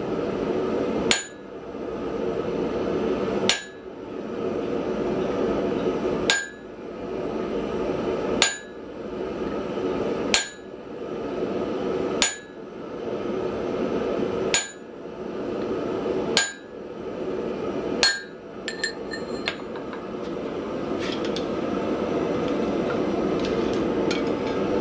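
A blacksmith's hand hammer striking steel on an anvil: nine slow, single blows about two seconds apart, each ringing briefly. A few lighter taps follow them, and a steady rushing noise runs underneath throughout.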